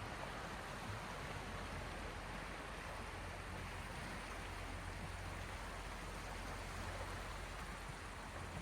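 Sea waves: a steady, even wash of water with no single wave standing out.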